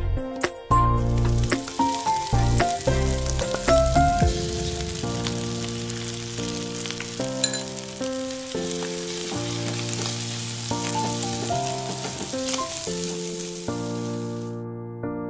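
Fried rice sizzling in hot oil in a wok as it is stirred with a wooden spatula, under background music of held keyboard notes. The sizzle cuts off suddenly near the end.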